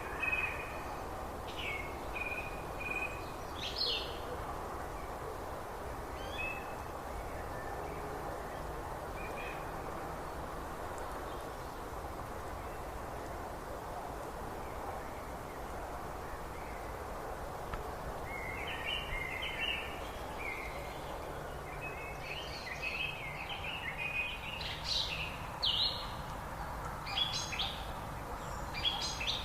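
Songbirds chirping and trilling over a steady background hiss; calls come now and then early on, thin out in the middle, then grow busy in the last ten seconds or so.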